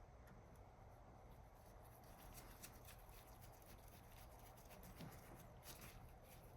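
Near silence: faint room hum with scattered faint ticks.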